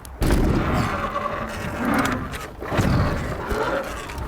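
Surron Light Bee electric dirt bike riding on skatepark ramps: the motor's whine rises and falls in pitch with the throttle over a low rumble of tyres and wind, with two short drop-outs, one about two seconds in.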